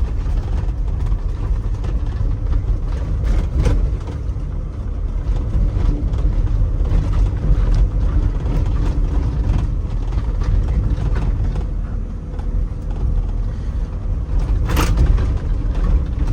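Mini dump truck driving, heard from inside the cab: a steady low engine and road rumble, with the cab creaking and rattling over a bumpy road, and a sharp knock near the end.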